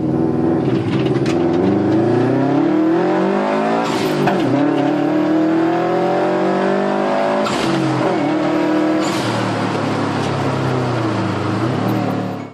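Four-cylinder car engine accelerating hard under load, its pitch climbing steadily. It shifts up twice, about 4 and 7.5 seconds in, with a short dip in pitch before each climb starts again.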